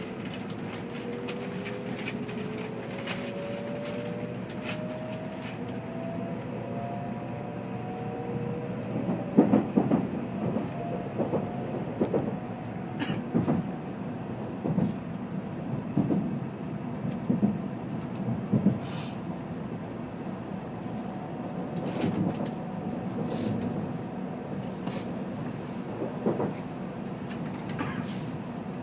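Shinkansen bullet train heard from inside the passenger car as it pulls away and accelerates: the electric traction motors' whine rises steadily in pitch over the first several seconds, over a steady rumble. About nine seconds in, a run of clunks from the wheels crossing track joints and points begins, roughly one a second.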